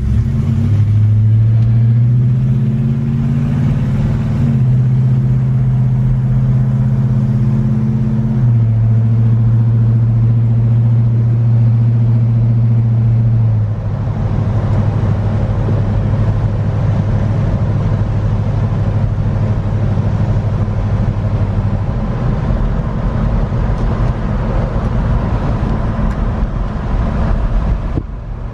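The 330 V8 of a 1967 Oldsmobile Cutlass with a four-barrel carburetor and a Turbo 350 automatic, heard from inside the cabin while driving. The engine note rises under acceleration and steps down in pitch twice as the automatic shifts up. From about halfway it is lighter and steadier, mixed with road and tyre noise.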